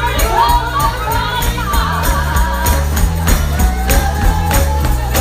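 Live gospel music: voices singing over a stepping bass line, with a tambourine keeping a steady beat.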